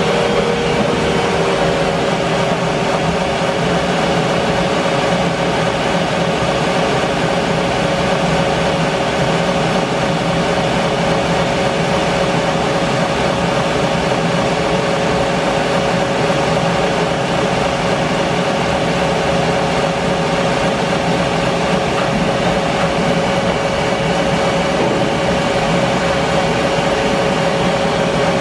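Band sawmill running steadily, its blade cutting through English larch, with a constant whine over the machine noise.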